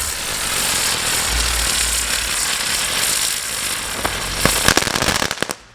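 A lit firework going off: a sustained crackling hiss with a few louder sharp cracks near the end, cutting off suddenly just before the end.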